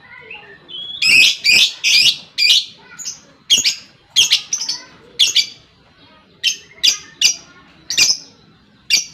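A lovebird giving a fast series of short, shrill chirps, roughly two a second, with a brief pause about two-thirds of the way through.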